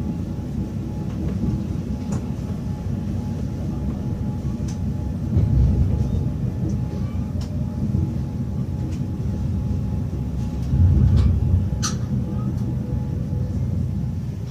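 Train rolling on the rails: a steady low rumble with short high squeaks and clicks, and two heavier surges of rumble about five and eleven seconds in.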